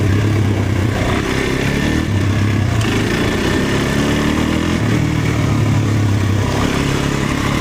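Dirt bike engine running under way, its note swelling and easing every second or two as the throttle opens and closes.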